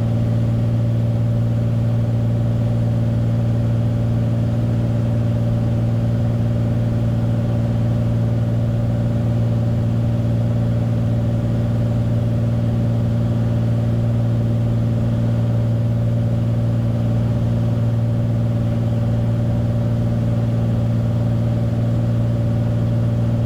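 Steady cockpit drone of a Beechcraft Bonanza's piston engine and propeller, a constant low hum with even tones above it, at reduced approach power with the prop pulled back on the downwind leg.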